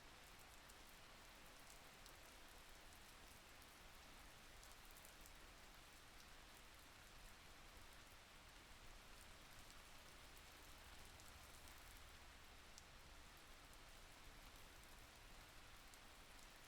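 Faint steady rain, with scattered light ticks of single drops.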